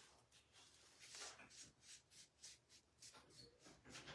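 Faint scratchy strokes of a paintbrush working paint onto a frame, about two or three a second.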